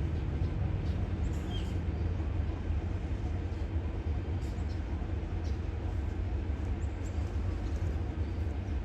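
Diesel locomotive engine running steadily at low revs, a constant deep drone, with a few faint bird chirps above it.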